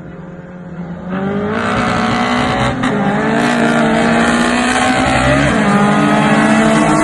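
Racing car engines at high revs under hard acceleration: the engine note jumps up sharply about a second in and holds high and loud, with a brief dip around five seconds in.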